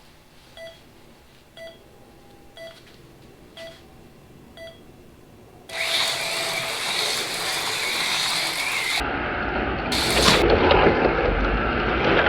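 A race countdown: five short beeps about a second apart, then a longer start tone. Right after it the AFX Mega G+ HO slot cars launch, their small electric motors whirring steadily and growing louder about three seconds later.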